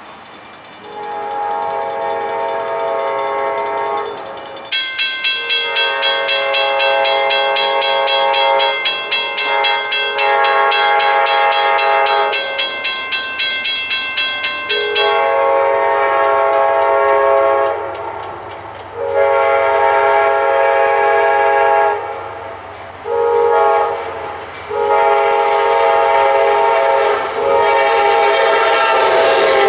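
Diesel locomotive air horn sounding a series of long blasts, with one short blast about three-quarters of the way through. A bell rings rapidly over the horn from about five seconds in until about halfway.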